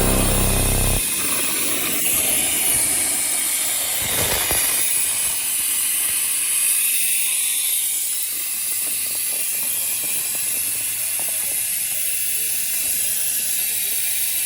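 A steady, loud, high-pitched hiss with scattered light mechanical clicks, after background music cuts off about a second in.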